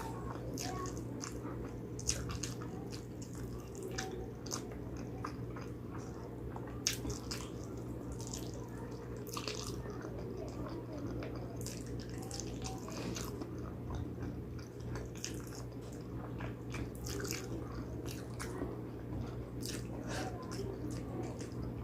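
Close-up eating sounds of a person chewing spicy pig trotters: wet chewing and frequent short mouth clicks and smacks, over a steady low hum.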